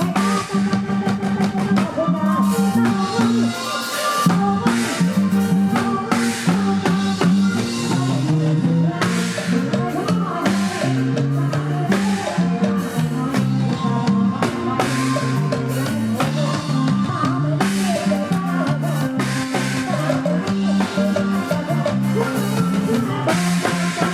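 Live band playing upbeat Isan luk thung dance music, driven by a drum kit with steady snare and cymbal hits and a walking bass line.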